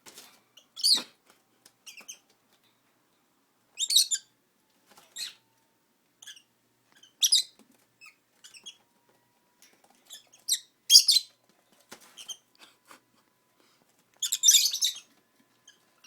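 Pet lovebirds giving short, sharp, high-pitched chirps in irregular bursts every few seconds, with a longer run of chattering about a second long near the end.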